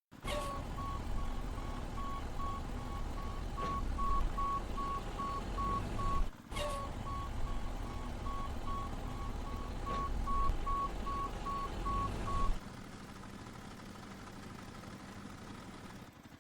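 Reversing alarm beeping steadily, about two beeps a second, over a low vehicle rumble. Both cut out abruptly about twelve seconds in, leaving a fainter hum.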